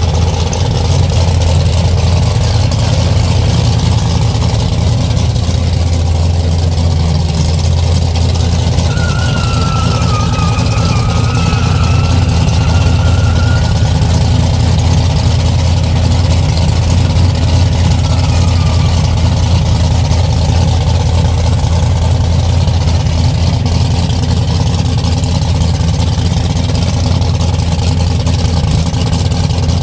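A Chevrolet Nova drag car's engine idling loudly and steadily while the car creeps slowly along, with no revving. A faint wavering high tone comes in for a few seconds about nine seconds in.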